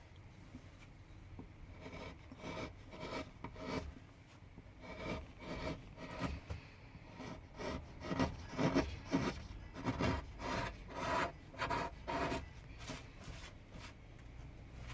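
A hand carving tool cutting into pine wood in a run of short scraping strokes, about two a second. The strokes are loudest in the middle and stop shortly before the end.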